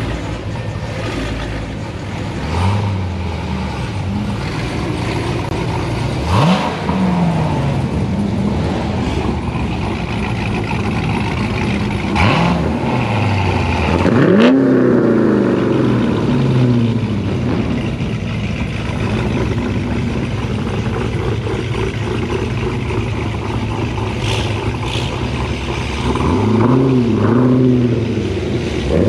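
Car engines running and revving, with several swells of rising and falling engine pitch: a few seconds in, about six seconds in, a long one about halfway through, and another near the end.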